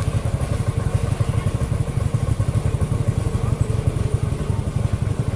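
Engine running steadily with a rapid, even exhaust beat.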